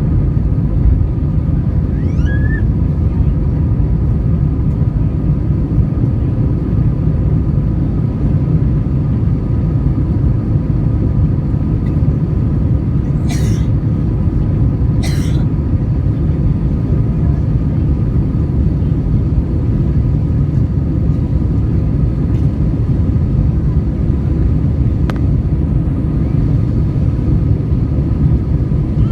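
Steady low rumble of an airliner's jet engines and rushing air, heard from inside the passenger cabin during the takeoff climb. Two brief hisses come about a second and a half apart, about halfway through.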